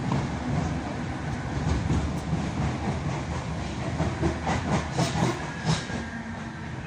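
Passenger train running, heard from inside the carriage: a steady low rumble with wheels clicking over the rail joints, and a cluster of sharper clicks about four to six seconds in.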